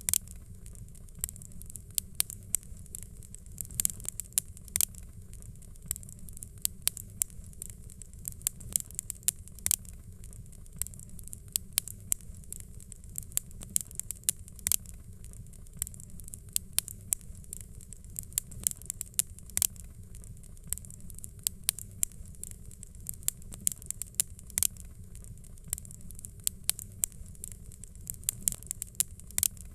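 Fire crackling: irregular sharp pops and snaps, several a second, over a steady low rumble of flames.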